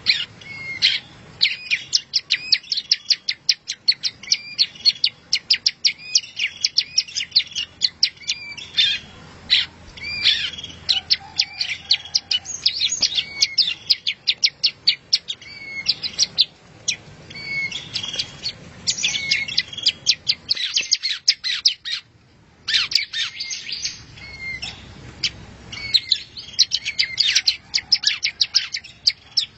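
Songbird masteran recording: a small bird singing rapid, high chirps and trills, many notes a second, with a brief pause about two thirds of the way in.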